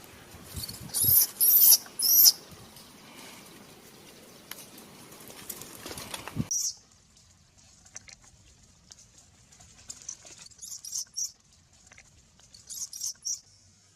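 Short, high-pitched squeaks from macaque monkeys, coming in clusters: loudest in the first few seconds and again near the end. The background hiss cuts off abruptly about halfway through.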